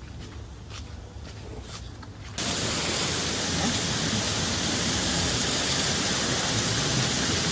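A steady, even rushing noise starts abruptly about two and a half seconds in and holds level. Before it there are only a few faint clicks over a low background.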